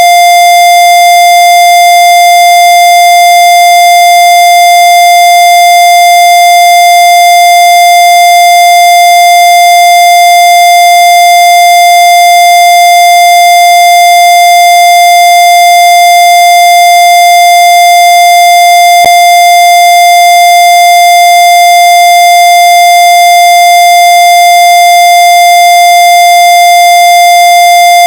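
A loud, harsh electronic tone held at one unchanging pitch, rich in overtones, with a faint click about nineteen seconds in.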